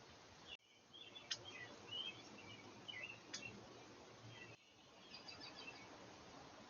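Faint outdoor background with small birds chirping in short, scattered calls. Two sharp clicks sound about a second apart and two seconds apart in the first half, and the background hiss cuts off abruptly twice, about half a second in and about four and a half seconds in.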